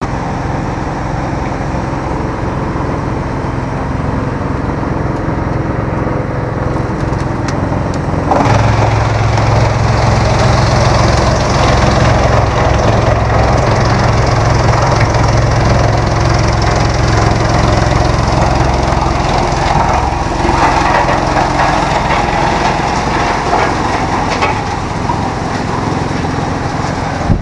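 GX2113 industrial drum wood chipper running. About eight seconds in it grows louder and denser as it starts chipping wood, then carries on steadily.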